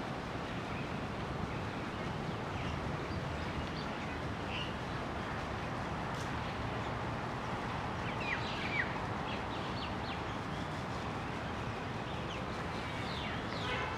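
Scattered short bird chirps, a few at a time and clustered near the middle and the end, over a steady background hiss of outdoor ambient noise.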